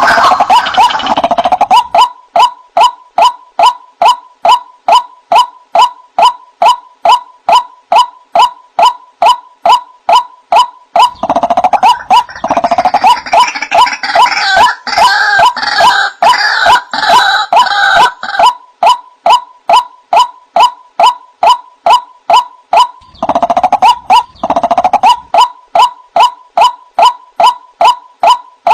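White-breasted waterhen calling: a fast, steady series of short, loud notes at about two a second. The calling thickens into overlapping, busier phrases twice, near the middle and again a few seconds before the end.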